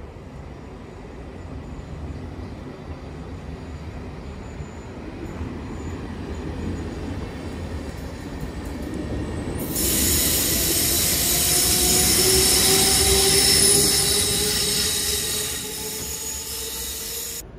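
SBB locomotive-hauled passenger train rolling slowly through a station, with steady wheel-and-rail rumble and a slowly rising whine. About ten seconds in, a loud high-pitched metallic squeal sets in and holds until it cuts off suddenly near the end.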